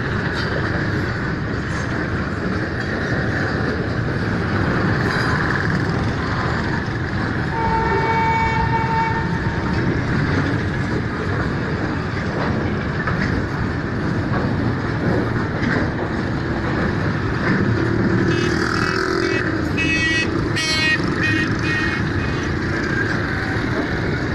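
Container freight train rolling past below, a steady rumble of wagons on the track. A short horn blast sounds about eight seconds in, and high-pitched metallic clattering comes around twenty seconds in.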